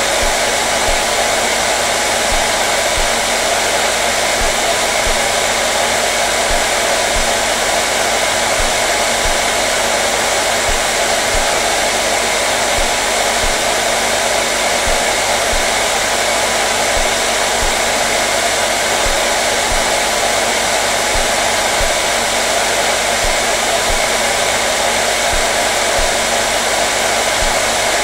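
Hair dryer running continuously: an even, steady whoosh of rushing air and motor with a faint constant hum underneath, no change in speed.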